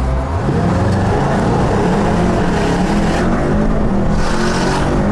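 Car engine accelerating hard, its pitch rising about half a second in and then holding at high revs, with a rush of passing air or traffic near the end.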